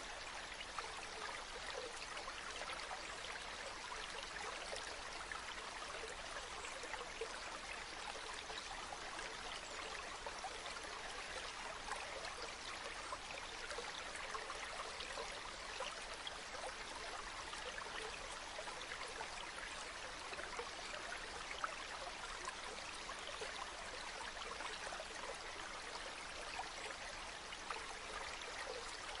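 Running water, like a small stream, trickling and babbling steadily without change.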